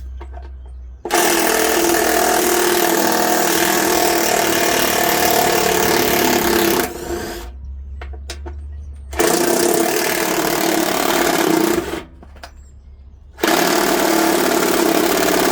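Cordless power driver run in three long bursts, each a few seconds, with short pauses between.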